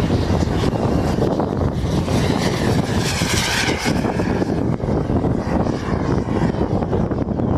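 Radio-controlled jet plane flying past, its engine whine swelling and shifting in pitch about three seconds in, over a steady rushing noise.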